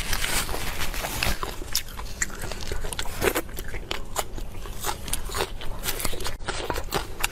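Close-miked eating: a person biting and chewing food, with many quick, irregular crackly clicks.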